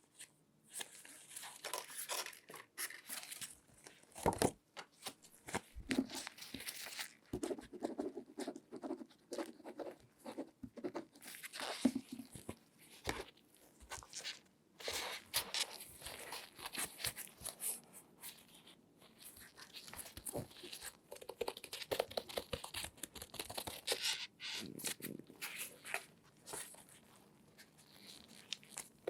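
Close-miked handling sounds from latex-gloved hands: irregular rustling and crinkling broken by many sharp taps and clicks.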